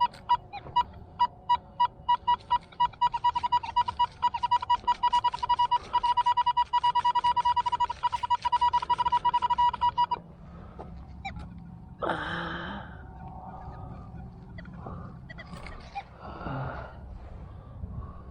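Metal detector's beeping tone, pulsing faster and faster until it is almost continuous, as it homes in on a buried target, then cutting off about ten seconds in. Two short breathy sounds follow later.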